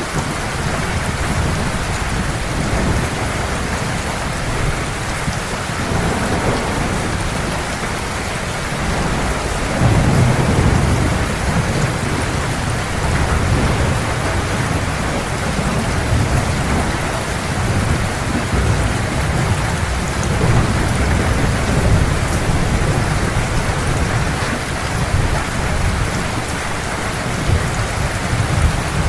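Heavy rain falling steadily, with low rolling thunder rumbling underneath; the thunder swells loudest about a third of the way in.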